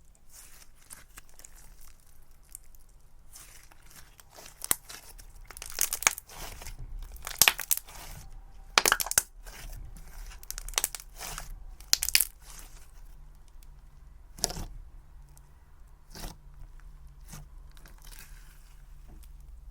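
Hands stretching, squeezing and pulling apart cloud cream slime, giving irregular soft crackling and tearing sounds that come thickest and loudest in the middle, then thin out to scattered crackles.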